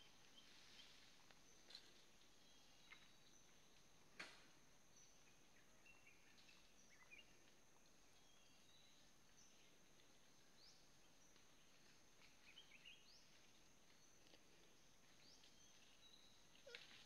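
Faint outdoor ambience: a steady high hiss with scattered short bird chirps, and a sharp click about four seconds in.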